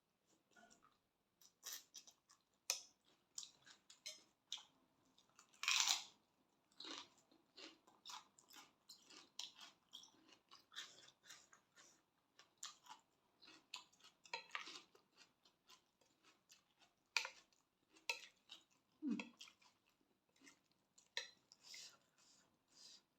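Close-up chewing of a spicy Thai glass noodle and seafood salad: irregular wet smacks and small crunches from the mouth, with a louder smack about six seconds in.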